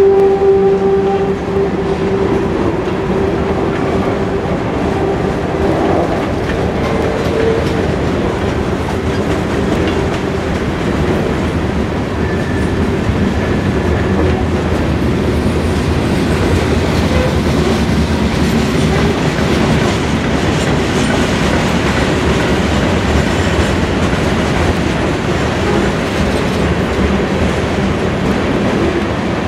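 Freight train cars rolling past: a steady rumble of wheels on rail with a clickety-clack rhythm. A held tone at the very start fades away over the first couple of seconds, and faint brief squeals come and go later.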